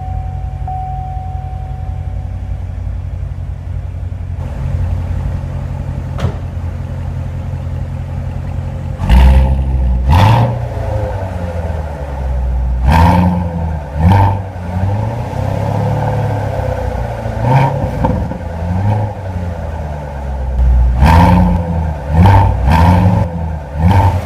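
Chevrolet Corvette Stingray's 6.2-liter V8 idling steadily just after a push-button start, then revved repeatedly from about nine seconds in, a string of throttle blips that rise and fall in pitch.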